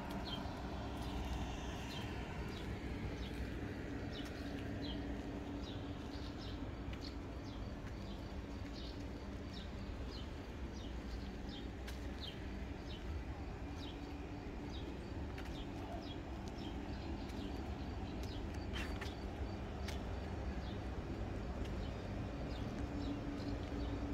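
Outdoor ambience: a small bird chirping over and over, about twice a second, above a steady low hum, with a couple of sharp clicks late on.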